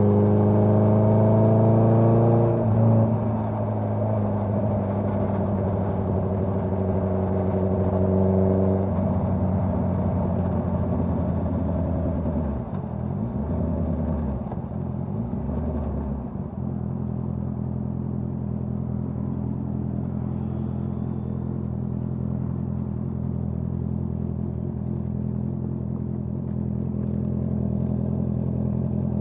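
Honda CBR650R inline-four running through a Dominator GP full-system exhaust: the note rises under acceleration for a couple of seconds, holds steady, drops and wavers off the throttle, and settles to a steady lower note for the second half.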